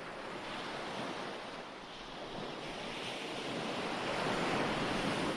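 Ocean waves breaking on a shore: a steady rushing hiss that swells gradually, is loudest about four to five seconds in, and falls away near the end.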